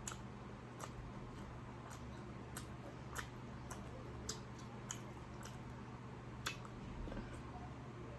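Close-up eating sounds: quiet chewing with a dozen or so scattered sharp, wet mouth clicks and smacks.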